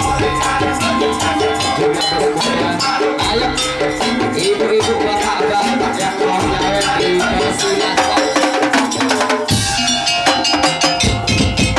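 Madurese daul (tong-tong) music: drums and percussion playing a fast, dense rhythm under a sustained pitched melody. About nine and a half seconds in the low drums drop out briefly, then a busier drum passage starts near the end.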